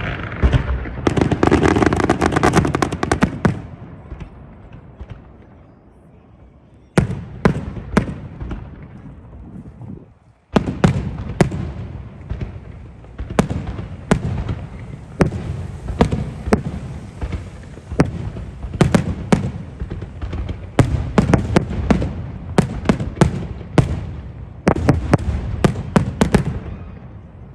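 Fireworks going off. A dense rapid crackle comes in the first three seconds or so, then after a quieter spell come many separate sharp bangs, several a second at times.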